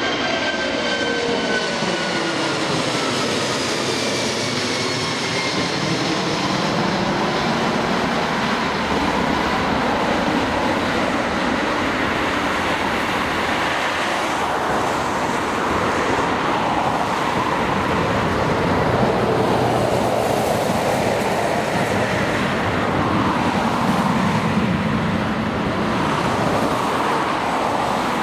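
Airbus A340 four-engined jet airliner passing by. A high engine whine falls in pitch at the start, giving way to a steady rushing roar that slowly swirls and wavers.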